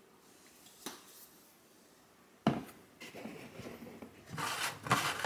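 Handling noise in a small room: a light click, then a sharp knock about halfway through, followed by rustling and rubbing of objects being moved about.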